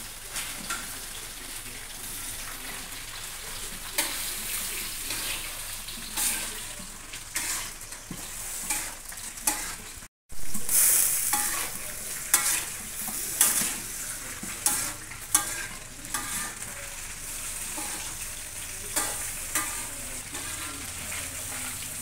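Chinese eggplant frying in oil in a steel wok, sizzling steadily, with a metal ladle repeatedly scraping and knocking against the wok as it is stirred. The sound drops out for a moment about ten seconds in, and the sizzle is louder after it.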